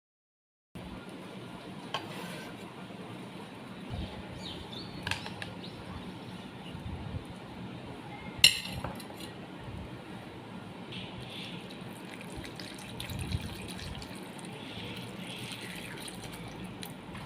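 Water sloshing and running in a bowl as cut potatoes are handled and rinsed, with a few sharp clinks against the dish, the loudest about eight and a half seconds in.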